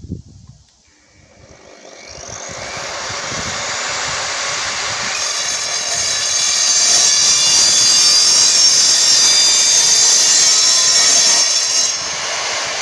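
Evolution R255SMS multi-material miter saw spinning up and its blade cutting through a workpiece, with a high-pitched ringing over the cutting noise. The sound builds over the first few seconds, is loudest in the middle, and eases off near the end.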